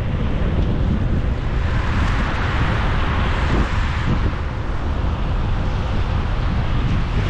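Road and wind noise of a car driving: a steady low rumble with wind buffeting the microphone. A hiss swells from about a second and a half in and fades by about four seconds.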